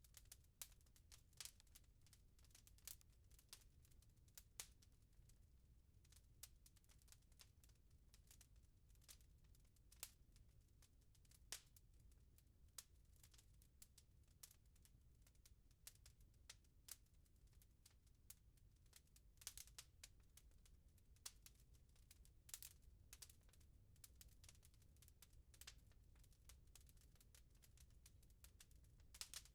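Faint wood fire crackling in a fireplace: irregular small pops and snaps over a low rumble.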